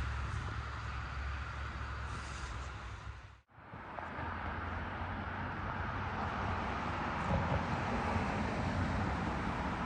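Road traffic: steady vehicle engine and tyre noise. It cuts out abruptly for a moment about three and a half seconds in, then resumes a little louder.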